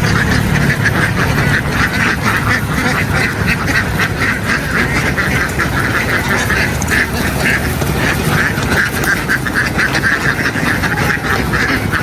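A large flock of domestic ducks quacking continuously, many calls overlapping into a steady clamour.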